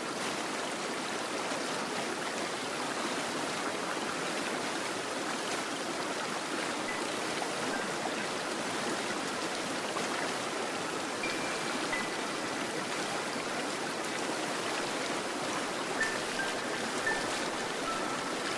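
Water running steadily, as in a stream, with a few short, high, thin notes in the second half.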